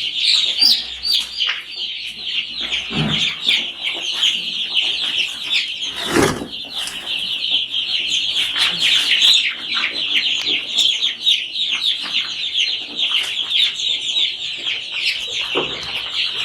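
Many young chicks peeping continuously in a dense, high-pitched chorus, with a single knock about six seconds in.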